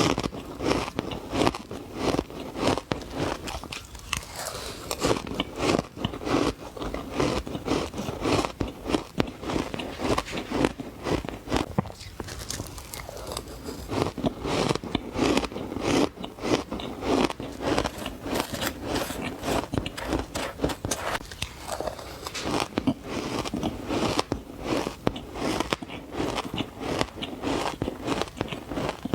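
Close-up bites into frozen green matcha ice, giving powdery crunches one after another without pause.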